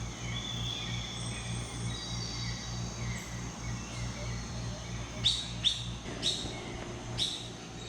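Tropical forest birds chirping and calling, with a quick run of about five sharp chirps in the second half, over a steady low hum.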